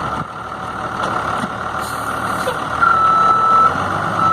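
Cummins ISB 5.9-litre diesel of a yard jockey truck running steadily, with one reversing-alarm beep about three seconds in.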